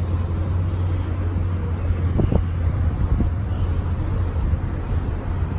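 A car engine idling with a steady low drone, with a couple of brief faint sounds about two and three seconds in.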